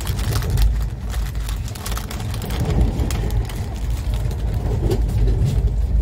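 Steady low rumble of a moving train heard from inside a passenger coach, with faint scattered clicks over it.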